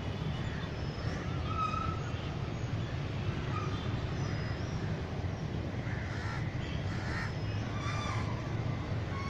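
Birds calling, many short calls scattered throughout, over a steady low rumble.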